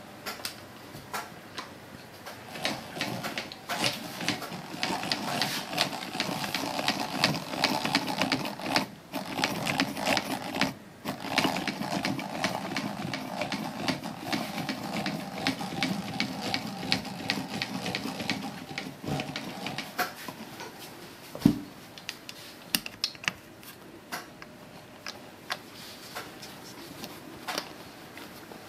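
1956 Essex Miniature Mark II hand-crank sewing machine running, sewing a single-thread chain stitch, with rapid mechanical clicking. The clicking pauses briefly twice, then thins out to scattered clicks and one louder knock in the last third.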